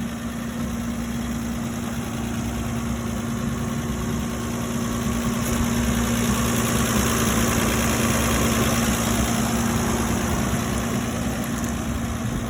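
Jeep M715 military truck's engine idling steadily, growing a little louder about halfway through and then easing back slightly.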